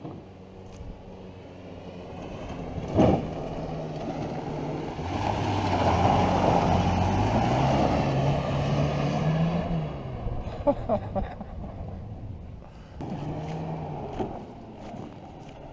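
First-generation Toyota Hilux pickup's engine running, then pulling away with its pitch rising for several seconds before it eases back to a lower steady run. A sharp knock about three seconds in.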